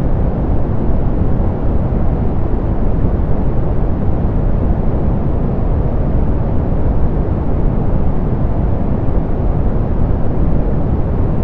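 Soft, low-pass-filtered pink noise: a steady, even rushing hiss weighted toward the bass, with the treble rolled off and no changes or events.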